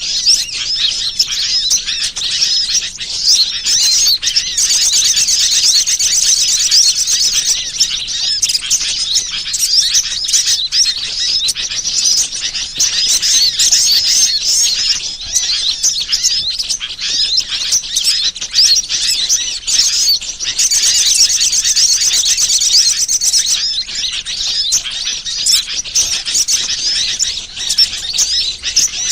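A dense chorus of small birds chirping and twittering at once in a high-pitched chatter, with a fast trill rising over it twice for about three seconds each. It is a bird-lure (pikat) recording meant to draw wild birds in.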